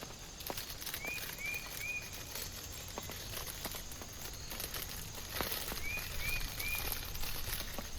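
Steady rain falling with scattered drops tapping, and two sets of three short rising chirps from a small animal, about a second in and again near six seconds.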